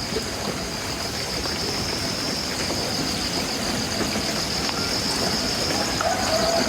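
Heavy rain pouring down in a steady hiss, with a steady high-pitched tone running over it.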